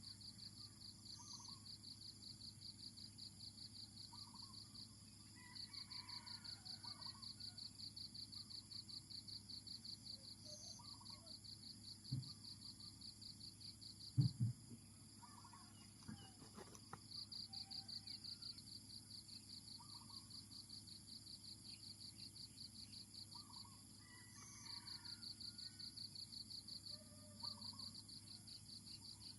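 Forest ambience: insects trilling in a fast, even pulse, in long stretches broken by short pauses, over faint scattered bird calls. Two dull knocks near the middle.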